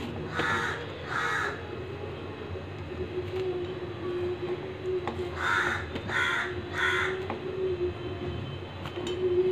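Five short bird calls, like caws: two close together near the start and three more about halfway through. A steady, slightly wavering hum runs underneath.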